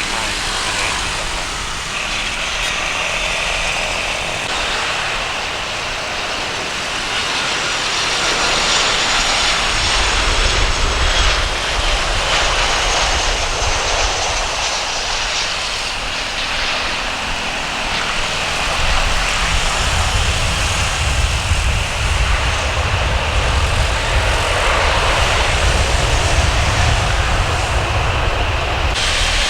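Jet airliner engines running, a steady high hiss with a deep rumble that comes up about ten seconds in and grows again near twenty seconds.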